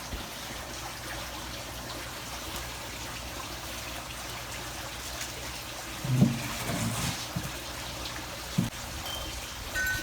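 Steady trickle of running water, with a few soft low knocks about six seconds in and again near eight and a half seconds.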